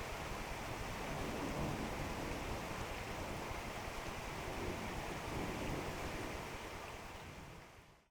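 Steady rain falling during a thunderstorm, an even hiss with no distinct thunderclap, fading out near the end.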